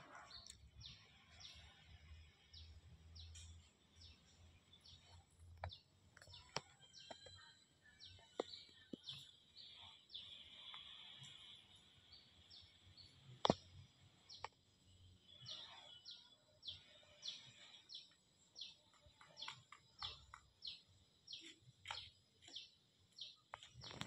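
Faint birdsong in the open: many short, high chirps and tweets from several birds, scattered through the whole stretch, over a quiet outdoor background. A few sharp clicks cut in, the loudest about halfway through.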